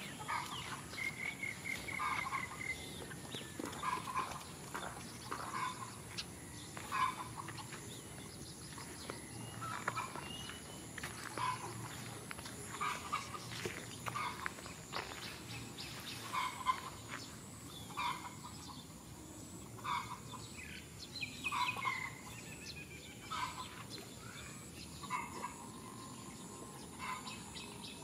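Birds calling outdoors: short calls repeated roughly once a second over background noise, with a faint steady high-pitched whine underneath.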